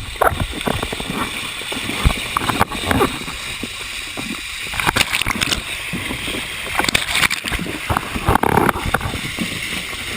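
Swirling whirlpool water sloshing and gurgling, with irregular splashes as a person is churned around in it.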